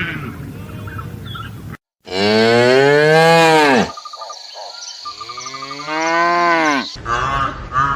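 A cow mooing twice. The two long calls each rise and then fall in pitch, and the first is the louder.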